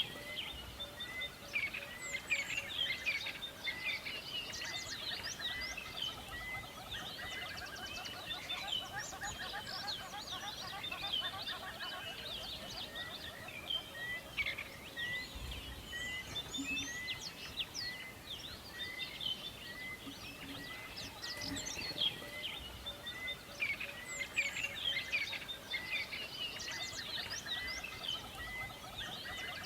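Several birds chirping and singing at once, a busy chorus of quick, high chirps and trills. One of them repeats a short, even note every half second or so.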